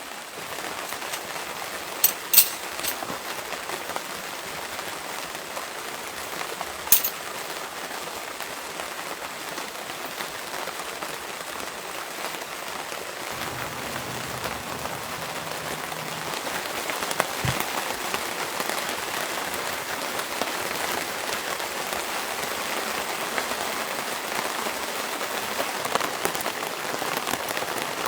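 Rain falling steadily on a surface, growing heavier about halfway through, with a few sharp clicks in the first several seconds.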